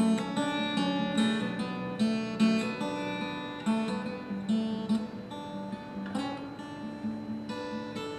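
Acoustic guitar played live, picking and strumming chords, each note ringing on after it is struck.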